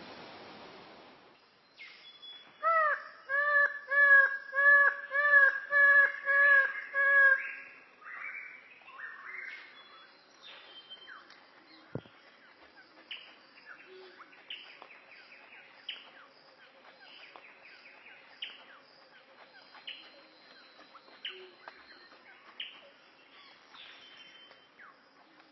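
A bird calling: a run of about ten loud, evenly repeated ringing notes, about two a second, followed by a long series of fainter short downward-sliding calls. A single sharp click comes midway.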